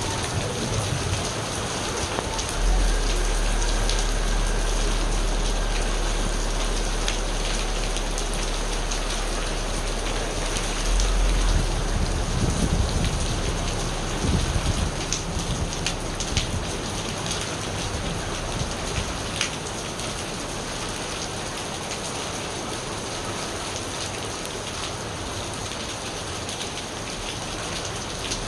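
Steady rain falling, with a long low rumble of thunder that starts about three seconds in, swells around ten seconds later and fades away by the middle.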